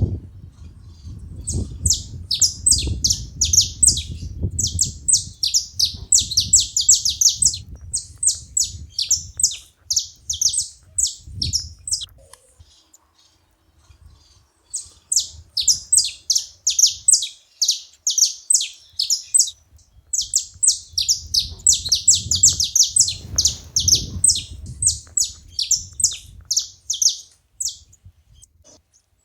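Saffron finch chatter: rapid runs of sharp, high chips in two long bouts, with a pause of about two seconds in the middle. A low rumble sits underneath, mostly in the first half.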